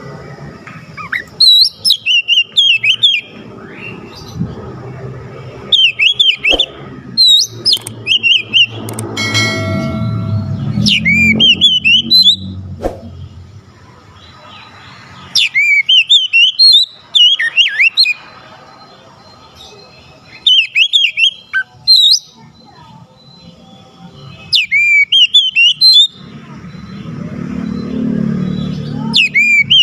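Oriental magpie-robin singing loud bursts of varied, swooping whistled phrases every few seconds. A low rumble sits underneath at times.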